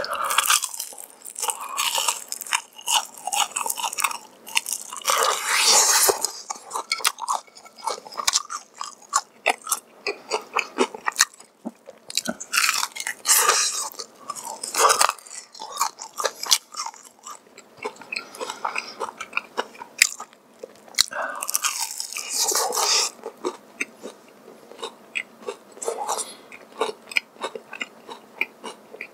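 Close-miked biting and chewing of crispy honey-glazed fried chicken: several bursts of loud crunching, with quieter chewing and crackling between them.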